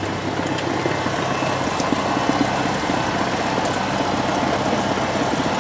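Light aircraft's piston engine idling steadily on the ground while the plane holds short before takeoff.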